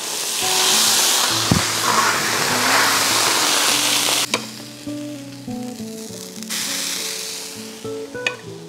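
Meat-stuffed chili peppers sizzling in hot oil with water and soy sauce as they go into the pan to braise. The sizzle is loud for about four seconds, falls away after a sharp click, then swells again briefly near the end.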